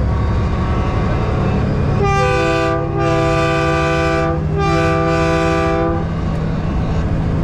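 Truck-mounted train horn sounding a multi-note chord in three blasts, a short one, then two longer ones, over the steady drone of a diesel truck engine and road noise.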